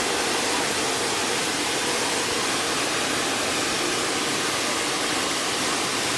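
Steam locomotive venting steam: a loud, steady hiss that starts suddenly just before and holds unchanged throughout.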